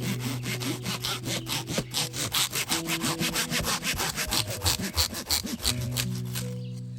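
Hand saw cutting through wood in quick, even back-and-forth strokes, about four a second, stopping near the end.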